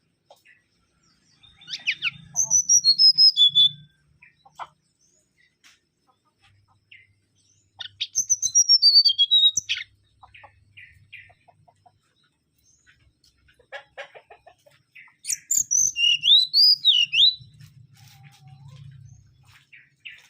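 Mangrove whistler singing three loud whistled phrases with pauses between, each a quick run of notes stepping down in pitch; the last phrase ends in rising notes.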